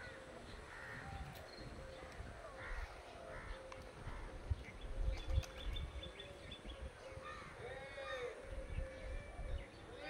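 Birds calling a few times, with short harsh arching calls, the strongest near the end, over a low rumble and a faint steady hum.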